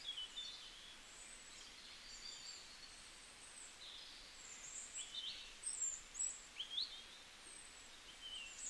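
Small birds chirping: short high calls and quick rising twitters, several of them around the middle, over a faint steady hiss.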